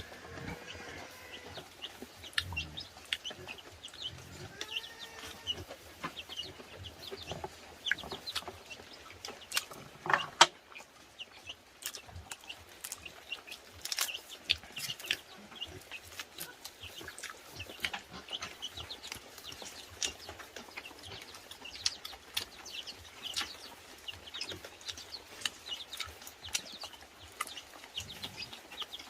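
Domestic chickens clucking, with many short clicks and taps throughout and one louder knock about ten seconds in.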